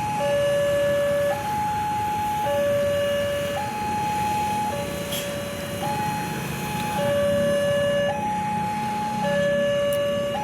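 Electronic two-tone warning signal alternating evenly between a low and a higher tone, each held about a second, over a low rumble.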